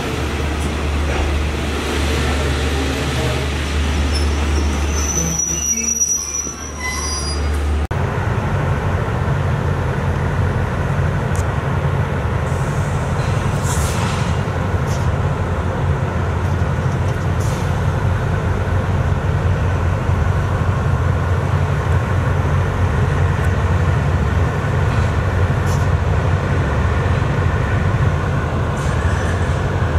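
Low rumble heard from inside a train carriage, with a brief high squeal about five to six seconds in. After an abrupt change about eight seconds in, a GE diesel-electric locomotive idles steadily with a low, even hum.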